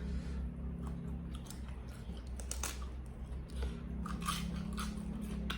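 A person chewing and biting food, with a few crisp crunches scattered through it.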